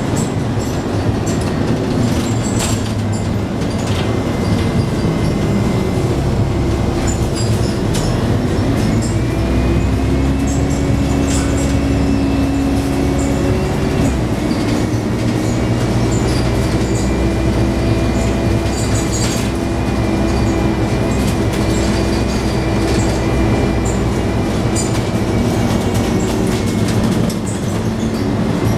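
Scania N113 double-decker bus's diesel engine and drivetrain running under way, heard from inside the cabin: a heavy low drone with a whine that rises and then drops sharply about fourteen seconds in. Body panels and fittings click and rattle throughout.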